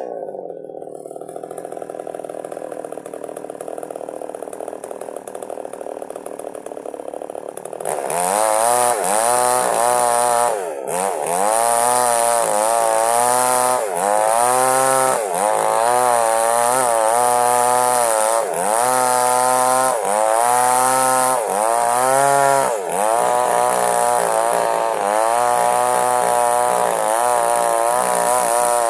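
Small chainsaw idling steadily for about eight seconds, then throttled up and cutting into wood. Its engine pitch dips and recovers about every second and a half as the chain bites through the log.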